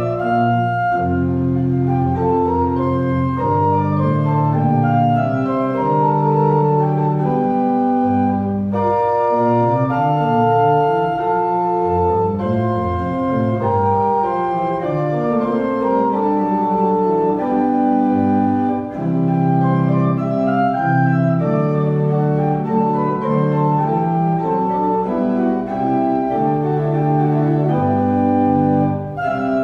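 Organ playing slow, held chords that change every second or two.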